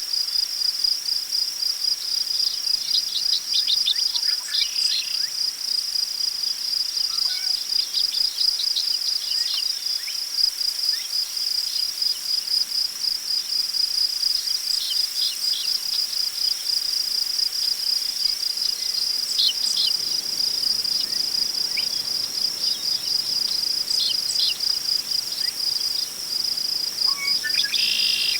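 Crickets chirping in a steady, fast pulsing chorus, with scattered short bird chirps over it. A faint rustle of wind in tall grass comes up about two-thirds of the way through.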